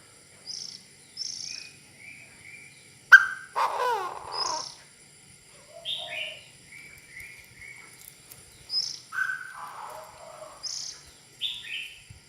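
Chinese francolin calling: a string of short high notes broken by two loud, harsh, downward-sweeping phrases, one about three seconds in and one about nine seconds in.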